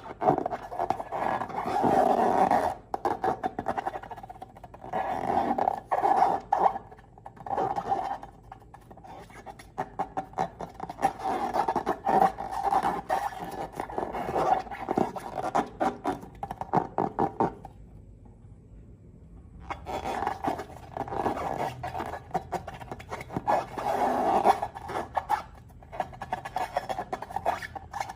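Slime being worked by hand: dense, sticky crackling and popping clicks in stretches of a few seconds, with a short quiet pause about two-thirds of the way through.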